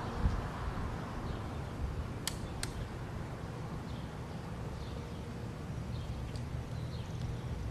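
Outdoor ambience: wind buffeting the microphone as a low rumble, with faint bird chirps and two sharp clicks a little over two seconds in.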